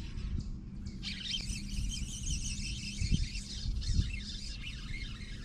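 Many birds chirping together, starting about a second in, over a steady low rumble. Two dull thumps come about three and four seconds in.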